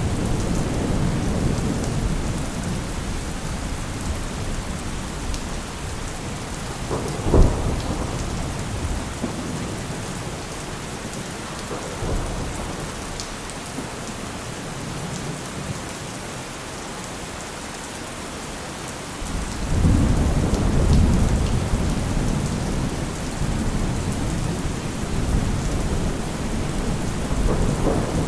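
Steady rain with thunder. Low rumbling at first, a sharp thunderclap about a quarter of the way in, then a long loud roll of thunder that builds about two-thirds of the way through.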